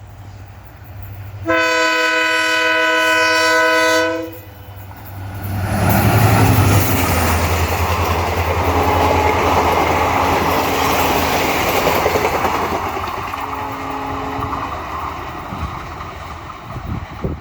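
A WDP4D diesel locomotive gives one loud horn blast of about two and a half seconds. Then the passenger train rushes past at full speed, its steel wheels rattling over the rail and its engine droning low underneath.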